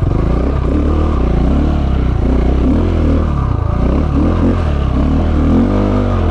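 KTM 690 Enduro's single-cylinder engine running under load over rough, eroded trail, the revs rising and falling again and again as the throttle is worked on and off.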